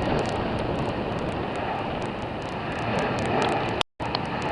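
Steady rumbling noise of jet airliners at the airport, mixed with wind on the microphone. The sound cuts out completely for a moment near the end.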